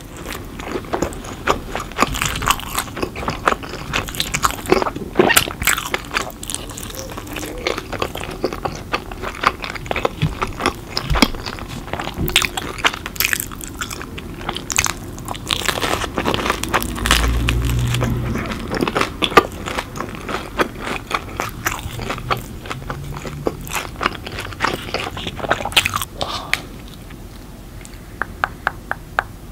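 Close-miked biting and chewing of pepperoni pizza, the crust crunching with many crisp crackles. The chewing thins to a few soft ticks near the end.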